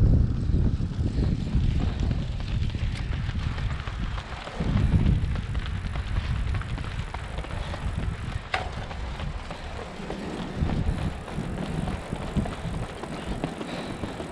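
Low rumbling wind buffeting the microphone, gusting loudest at the start and again about four and a half seconds in, with one sharp click about eight and a half seconds in.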